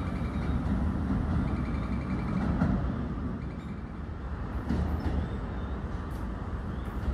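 Keio Line electric commuter trains running through an elevated station: a steady rumble of wheels and motors.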